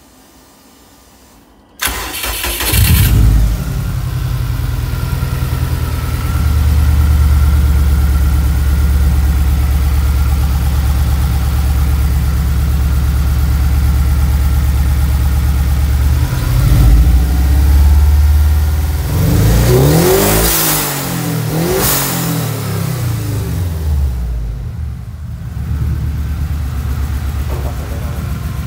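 Subaru EJ25 turbocharged flat-four engine from a 2006 STi cranking and catching about two seconds in, then idling steadily. Revved up and down a few times about two-thirds of the way through, then settling to a quieter idle near the end.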